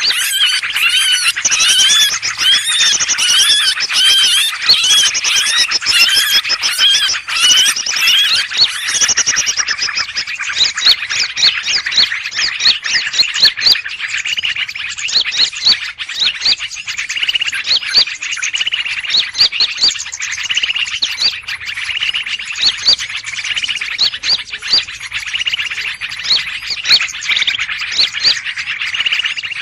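A bird-trapping lure recording of many small birds calling at once in a noisy 'ribut' mix, used to draw in greater green leafbirds (cucak ijo). Overlapping chirps and whistled notes run continuously; a quick run of repeated rising-and-falling notes in the first third gives way to looser, mixed calling.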